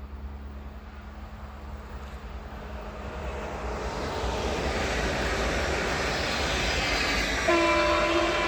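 A train approaching on the line, its rumble growing steadily louder, then the locomotive's horn sounding about a second before the end.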